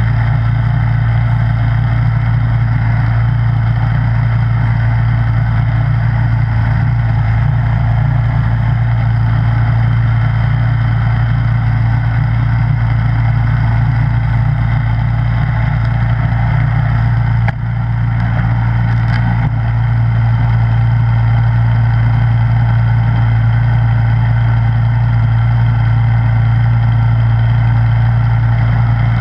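Snowblower engine running steadily with a constant low hum, dipping briefly once a little past the middle.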